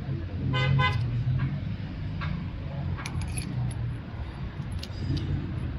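Small metal parts clinking and tapping over a steady low hum, with a brief ringing tone just under a second in.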